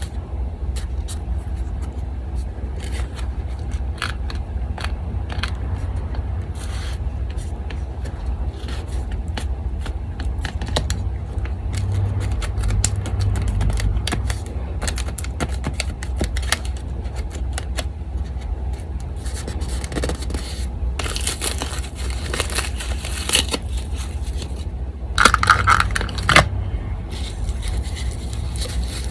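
Paper being handled and rubbed: many small crackles and scrapes, a longer rustling stretch past the middle and a louder crinkle near the end, over the steady low hum of an electric fan.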